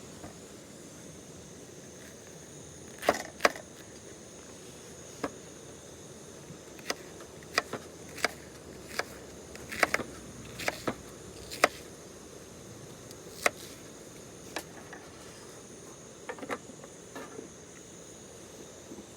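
Autumn crickets chirping steadily in a high, even drone, with about fifteen sharp clicks and knocks at irregular intervals through the middle of the stretch, some of them in quick pairs.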